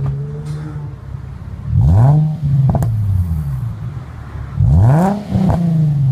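Infiniti G35's VQ35HR 3.5-litre V6 through a Magnaflow exhaust, idling and then revved twice, about three seconds apart. Each rev rises quickly and falls back to idle.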